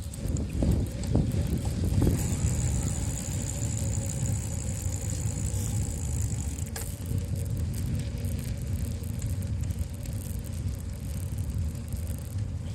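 Wind buffeting the microphone of a handlebar-mounted GoPro while riding a bicycle, a steady low rumble. A thin high whine runs for a few seconds in the middle.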